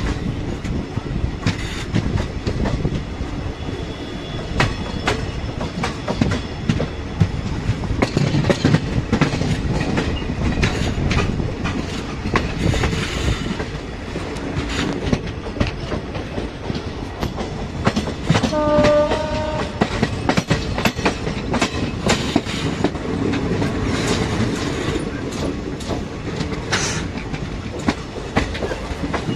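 Express passenger train's coaches rolling along the platform line, wheels clicking steadily over the rail joints in a clickety-clack. A short train-horn note sounds for about a second, about two-thirds of the way through.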